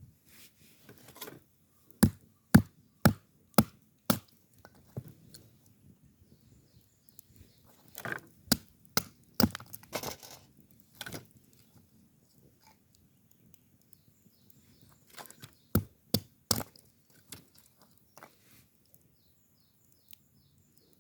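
Firewood being chopped into kindling: a run of five sharp wooden knocks about half a second apart, then more scattered knocks and cracks, and a quick group of three near the end.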